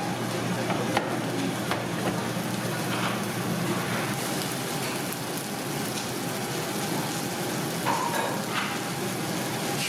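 Chicken roasting over a wood fire, sizzling steadily with a few sharp crackles.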